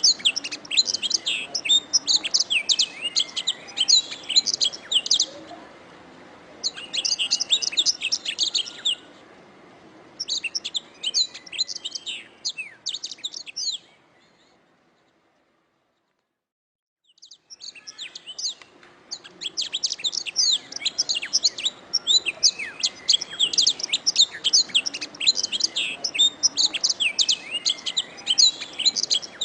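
Domestic canary singing in fast, high trills and chirps, phrase after phrase in bursts a few seconds long. Midway the song stops dead for about three seconds, then resumes and runs on without a break.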